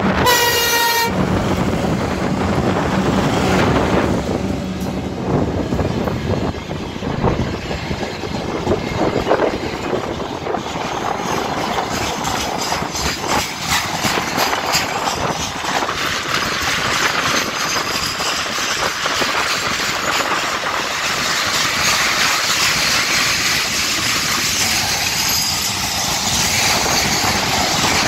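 A brief horn blast from a 2M62UM diesel locomotive, cut off about a second in. Then the locomotive's engine hum fades and a loaded mixed freight train rolls by, its wagon wheels clicking over the rail joints in a continuous rumble.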